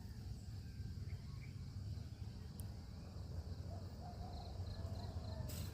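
Faint outdoor ambience: a low steady rumble, with an insect, likely a cricket, chirping in quick even pulses about three times a second from about four seconds in.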